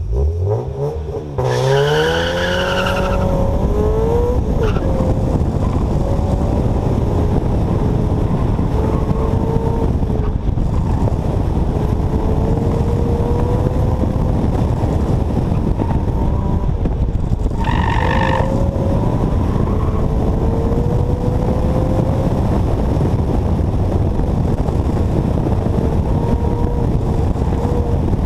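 Subaru BRZ's 2.0-litre flat-four launching hard and revving up through the gears, then held at high revs under hard driving, with heavy wind rush over the microphone. The tyres squeal briefly about two seconds in and again about eighteen seconds in.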